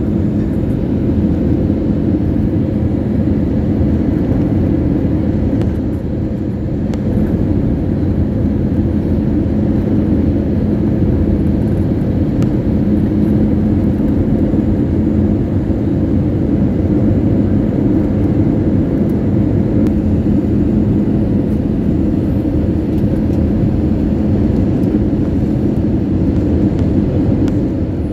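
Airliner cabin noise during the descent to landing: a steady, loud low rumble of jet engines and airflow with a constant low hum running through it.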